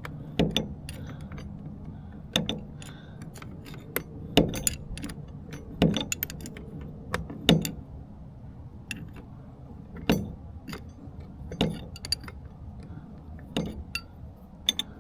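Metal wrenches clicking and clinking on the shift shaft's nut while the top nut is loosened off: a sharp click every couple of seconds as the wrench is reset, with lighter ticks between.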